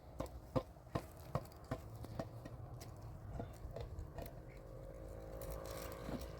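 A series of short, light knocks, about two or three a second for the first two seconds and then scattered, with a faint held tone near the end.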